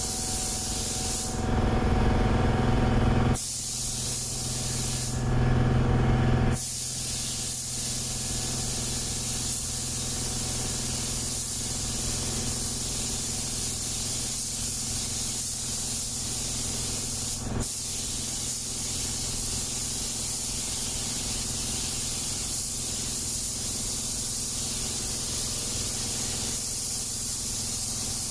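Paint spray gun hissing steadily as it sprays paint. About a second and a half in, and again about five seconds in, the hiss gives way for a second or two to a louder, lower rushing noise, and there is a single click later on.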